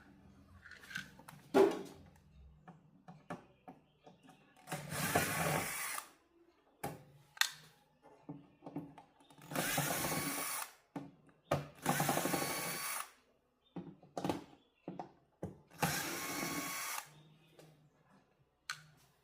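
Small power drill-driver running in four short bursts of about a second each, with light clicks and taps between them.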